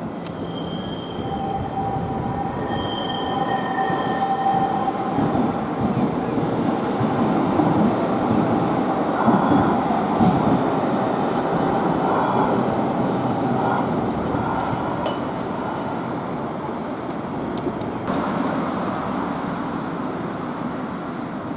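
Nagasaki Electric Tramway streetcar passing. Its steel wheels squeal on the rails with a high ringing tone for the first few seconds, then it rumbles, growing louder toward the middle with a few sharp clicks, and fades away.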